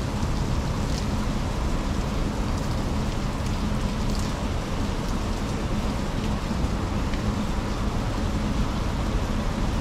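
Steady rain falling, with a low steady hum underneath and a few faint ticks of drops.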